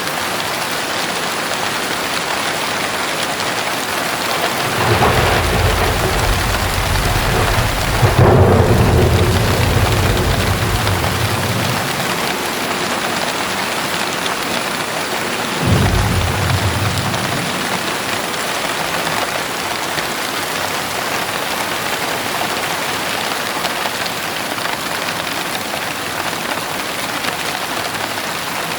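Steady heavy rain with thunder. A rumble builds about five seconds in, peaks in a sharp clap around eight seconds, and rolls on for a few seconds. A second, shorter rumble starts suddenly around sixteen seconds in and fades.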